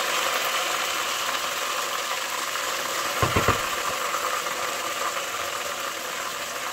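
Sorrel leaves frying in hot oil in a pot, a steady sizzle. A short run of quick knocks comes about three seconds in as the leaves are stirred.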